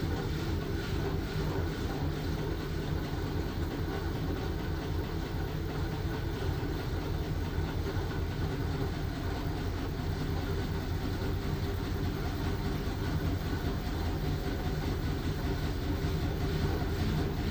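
LG washing machine running steadily through its cycle with blankets inside, giving a continuous low rumble.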